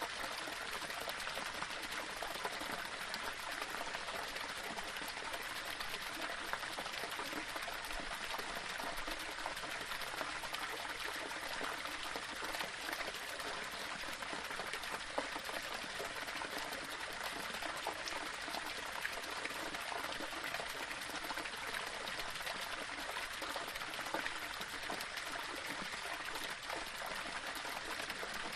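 A small waterfall running over stones: a steady splashing and trickling of water.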